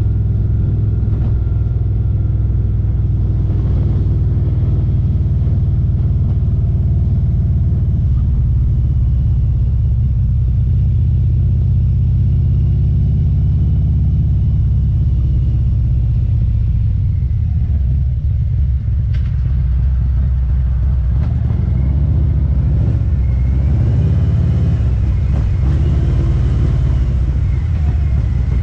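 2019 Harley-Davidson Street Glide CVO's Milwaukee-Eight 117 V-twin running through Khrome Werks Aggressor headers and slip-on mufflers while riding: a steady, loud, deep exhaust rumble, its pitch shifting with throttle changes in the second half.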